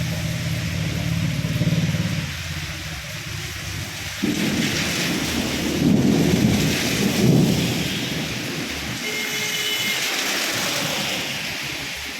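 Heavy rain falling steadily, with a roll of thunder that starts suddenly about four seconds in, swells twice and fades over several seconds.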